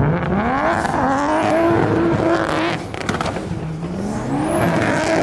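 A car engine being revved twice with the car stationary. The first rev climbs and holds high for about two seconds before dropping with a few crackles, and the second climbs again near the end. A thin high whine rises with each rev.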